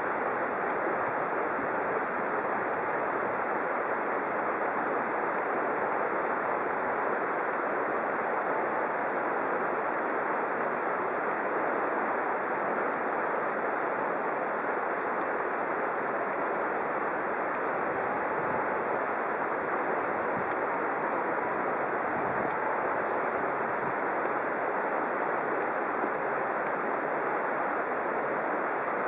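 Steady rushing noise of flowing water, even and unchanging.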